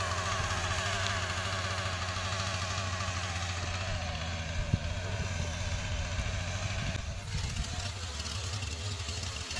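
A small engine running steadily, its sound changing about seven seconds in.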